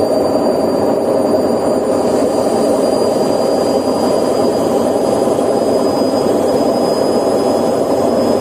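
Candy washing machine drum spinning with a loud, steady rumble and a faint high whine, the noise of its drum bearings, typical of worn bearings.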